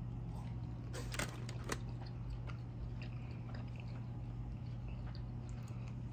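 Person chewing and biting food close to the microphone, with a few sharp crunchy clicks about a second in, over a steady low hum.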